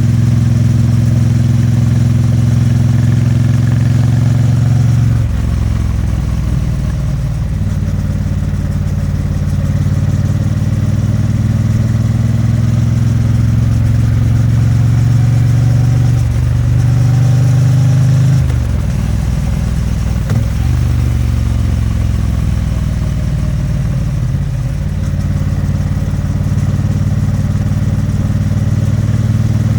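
Exhaust and engine of a Triumph Bonneville T100's 900 cc parallel twin under way. The engine note holds steady, dips about five seconds in, rises and falls again around the middle, and climbs back near the end as the throttle and gears change.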